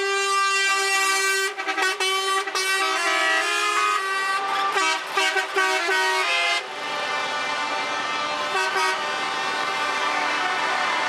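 Truck air horns blowing: first held, then a string of short blasts from about a second and a half in until about six and a half seconds, then going on over a lower rumble from the trucks.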